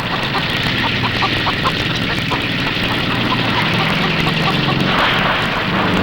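A steady, loud mechanical drone over a rough hiss, with short ringing pings scattered through its first half.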